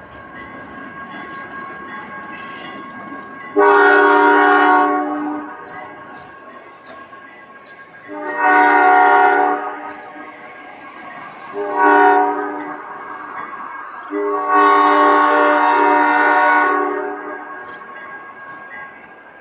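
Ohio Central B23-7R diesel locomotive's air horn sounding the grade-crossing signal: two long blasts, one short, then a final longer blast, over the steady noise of the passing train.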